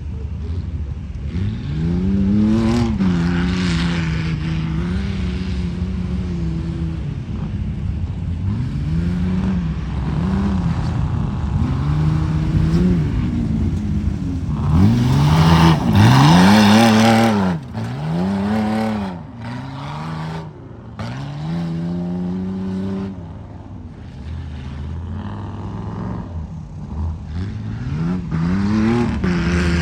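A truck engine revving hard again and again, its pitch rising and falling many times as the throttle is worked. The loudest, highest-pitched revs come about halfway through.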